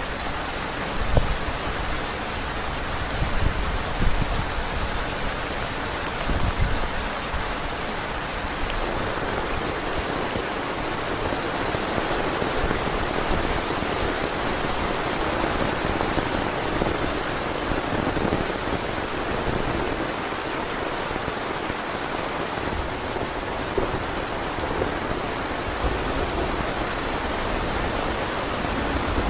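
Heavy rain pouring steadily, with a few low thumps of wind in the first several seconds.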